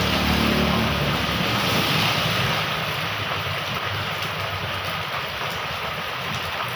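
Heavy rain pouring steadily, a dense even hiss. A low hum fades out within the first second.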